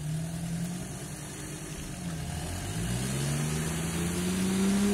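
Off-road 4x4 engine running under load while towing another vehicle out of the mud on a strap, the revs rising steadily about halfway through and holding high.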